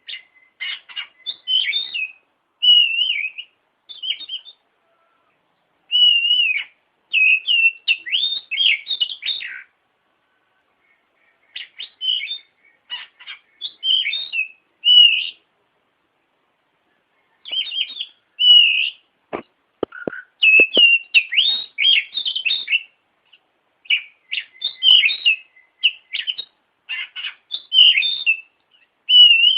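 Oriental magpie-robin (kacer) singing: bursts of rapid, varied whistles and chattering notes lasting a few seconds each, separated by short pauses, with a few sharp clicks about two-thirds of the way through.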